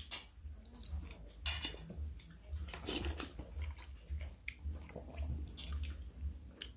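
Chewing close to the microphone, a steady dull rhythm of about two chews a second, with scattered light clinks of plates and spoons.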